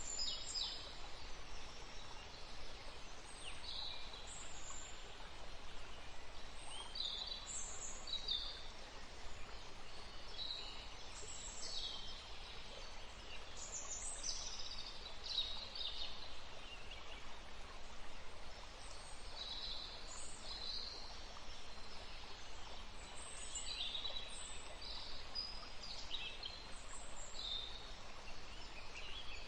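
Small birds chirping: many short, high calls, several a second at times, from more than one bird, over a steady background hiss.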